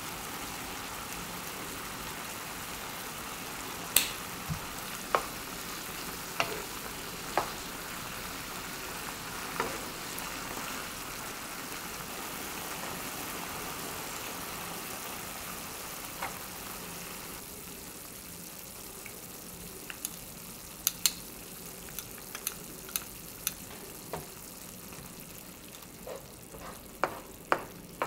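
Pork, napa cabbage and shrimp sizzling in a deep nonstick frying pan, with sharp taps of a wooden spatula against the pan now and then. The sizzle softens about two-thirds of the way through, and the taps come more often after that.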